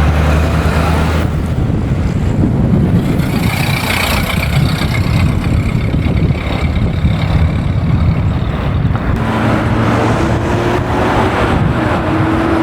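Classic car engines running at low speed with a steady low engine note. From about nine seconds in, one engine's note rises slowly as it pulls away.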